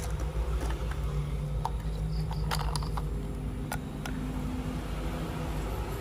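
A small electric toy motor running steadily, with scattered light plastic clicks.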